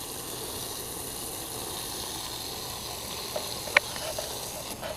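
Garden hose spraying a steady stream of water onto the dirt of a chicken yard, a continuous hiss, with one brief sharp sound near the end.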